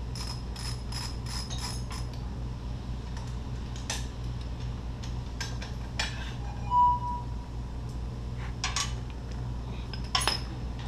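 Hand tools and metal engine parts clinking and clicking during motorcycle engine teardown work, with a quick run of even clicks in the first couple of seconds and scattered clicks after. A short squeak sounds about two-thirds of the way in, over a steady low hum.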